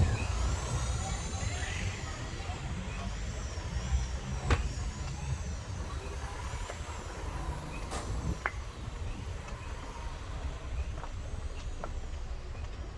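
Street ambience: a steady low traffic rumble with a few sharp clicks along the way.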